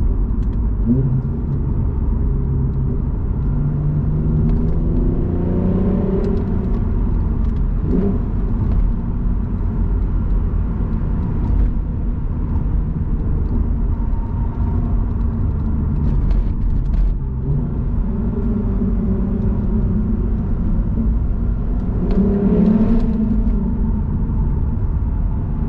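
Lexus IS 350's 3.5-litre V6 running through an F Sport exhaust with the resonator deleted, heard from inside the cabin while driving. Its pitch rises under acceleration a few seconds in and again near the end.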